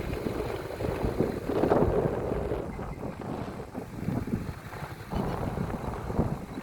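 Wind buffeting the phone's microphone in irregular gusts, a low rumbling noise that swells about a second and a half in.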